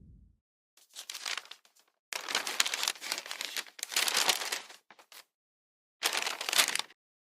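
Crinkling, rustling noise in several irregular bursts, with dead silence between them.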